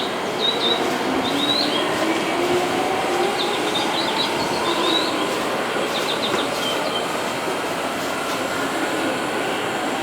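Seibu electric train running at the platform: a steady rumble of wheels on rails with a faint motor whine that rises in pitch, and short high chirps over it.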